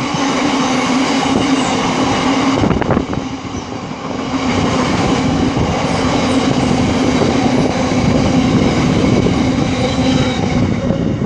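Pair of Class 56 diesel-electric locomotives, their Ruston-Paxman V16 engines running as they pass, making a loud steady engine drone. About three seconds in there is a brief dip with a few knocks, and then the drone carries on.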